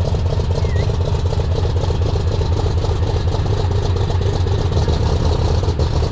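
Large tractor diesel engine running steadily at idle, a deep even rumble with no revving.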